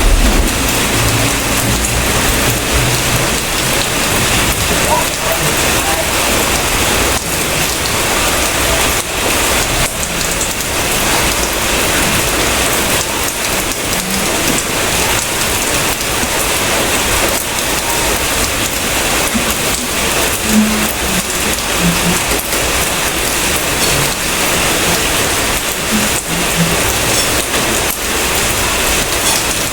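Steady rain falling, a dense even hiss and patter of drops on surfaces.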